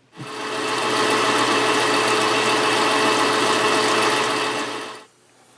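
A high-speed electric power tool motor starts, runs steadily with a constant whine for about five seconds, and stops, likely while it cuts a shallow recess for the plastic insert.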